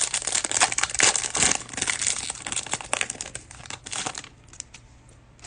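Cellophane wrapper of a Mosaic basketball cello pack crinkling and rustling as it is handled and opened, dying down about four seconds in.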